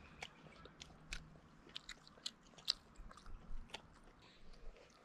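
Someone eating close to the microphone: faint, irregular clicks and smacks of chewing.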